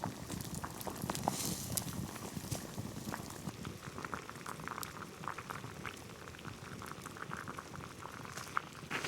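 A pot of liquid bubbling over an open campfire, with a steady low bubbling and many small pops.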